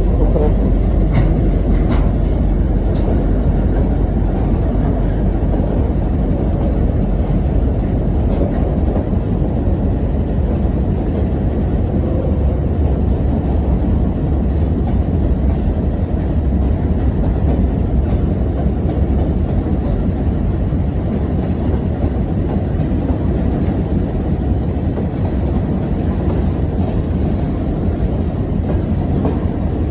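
Freight train wagons rolling past on the track: a steady, heavy rumble of wheels on rail.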